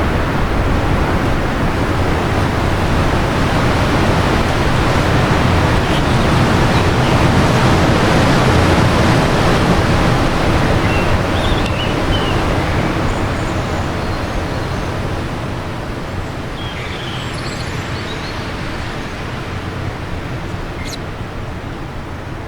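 Wind gusting, a steady rushing that builds toward the middle and then eases off, with a few faint bird chirps over it.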